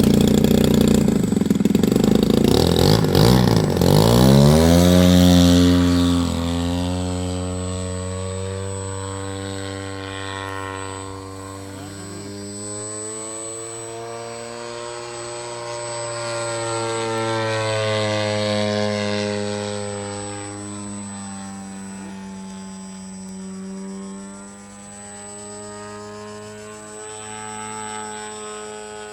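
The 120cc gasoline engine of a large radio-controlled airplane runs at high throttle close by. Its pitch drops sharply about five seconds in as it passes and pulls away. It then drones steadily at a distance in flight, growing louder again about two-thirds of the way through.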